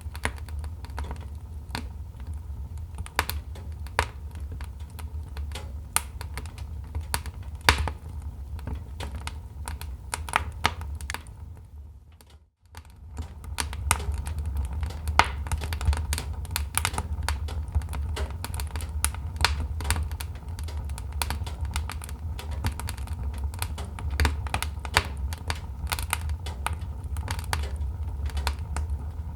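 Wood fire crackling and popping: dense, irregular sharp snaps over a steady low rumble. The sound fades out briefly about twelve seconds in, then comes back.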